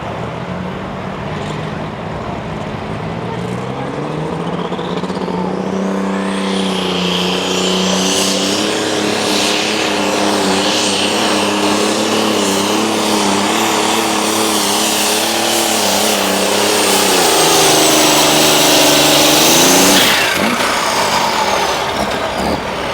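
Turbocharged diesel super stock pulling tractor making a pull at full throttle. The engine climbs in pitch over the first few seconds with a rising turbo whistle, holds high revs, dips and climbs again, then throttles off abruptly near the end.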